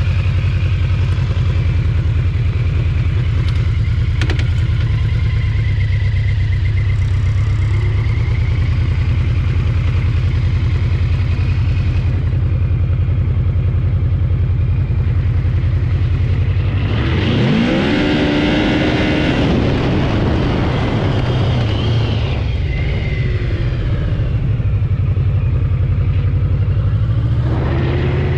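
Motorcycle engine idling close by with a low, steady rumble, revved up and rising in pitch about 17 seconds in, and again near the end.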